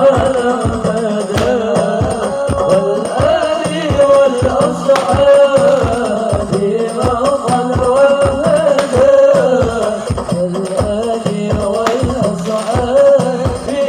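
Sholawat, an Islamic devotional song praising the Prophet, sung with a wavering melody over a steady beat of hand drums and jingles.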